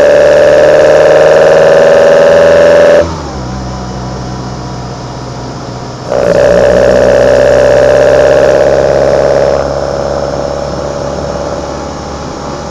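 Kadett GS 16-valve four-cylinder engine breathing through twin side-draft Solex C40 ADDHE carburetors, loud intake sound rising in pitch under throttle. The throttle shuts abruptly about three seconds in and the sound falls away. About six seconds in it opens again with another rising pull, and the sound eases off a little before ten seconds.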